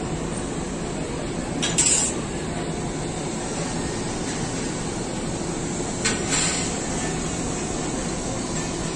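Passenger train coaches rolling slowly out of a station, a steady rumble of wheels on the rails, with two short metallic clanks: a loud one about two seconds in and a smaller one about six seconds in.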